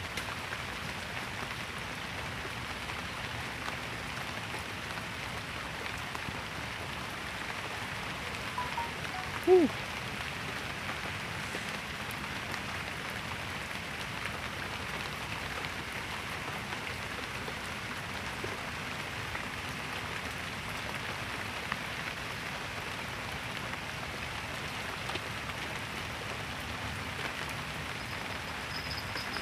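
Steady rain falling, an even hiss with no let-up. About nine seconds in, a short sound falls in pitch; it is the loudest moment.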